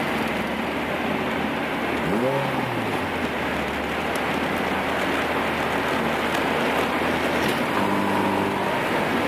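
Turbocharged Honda Civic driving, with steady engine and road noise and a short rev that rises and falls about two seconds in.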